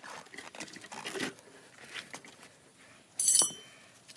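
Metal tools knocking and scraping against a motorcycle wheel rim while a tyre bead is worked onto it, with one sharp, ringing metal clink about three seconds in. The bead is binding on the rim because it has not yet been pushed down into the rim well.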